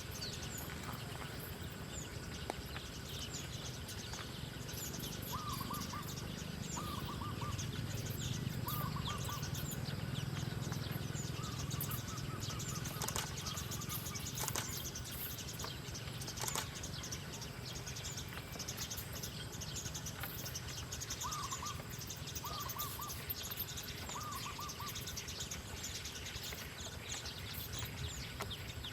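Wild birds chirping and calling, with many short high chirps, and a short wavering call repeated about three times in a row twice, once near the start and once later on. A steady low background rumble runs underneath.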